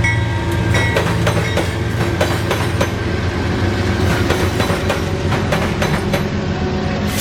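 A train rolling past close by: a steady low rumble with the steel wheels clicking repeatedly over the rail joints.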